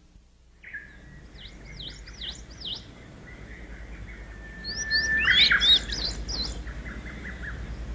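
Birds singing: a run of quick swooping chirps and a long held whistled note, with a louder flurry of rising calls about five seconds in.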